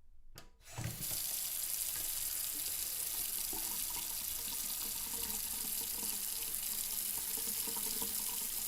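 Two short clicks, then a sink's tap turned on: water runs from the faucet into the sink in a steady stream from about a second in.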